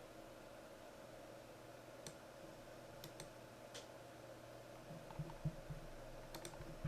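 Faint, scattered computer mouse clicks over a low steady hum, with a few soft low knocks about five seconds in.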